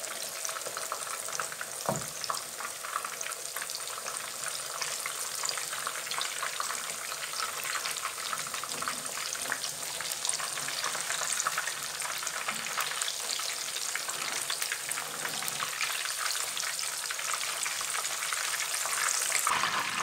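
Mutton chapli kebabs shallow-frying in hot oil in a pan: a steady, dense sizzle and crackle. A single knock sounds about two seconds in.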